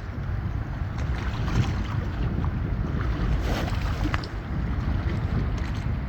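Wind buffeting the microphone outdoors: an irregular, steady low rumble with a few faint clicks.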